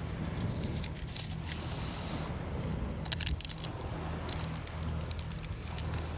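Wood campfire crackling: irregular clusters of small sharp pops and clicks over a steady low rumble.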